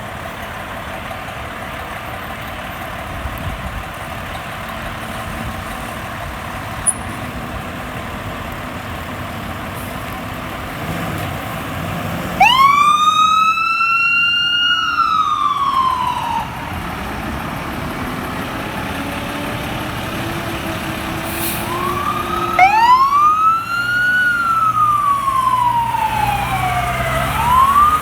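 Fire apparatus responding: a diesel engine runs steadily, then a siren wails, sweeping up and down once about halfway through and starting again a few seconds before the end.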